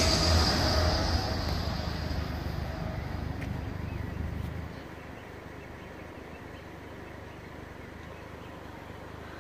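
A high-speed passenger train on the main line going away after passing the level crossing, its noise dying down over about five seconds. A low steady background rumble remains after it.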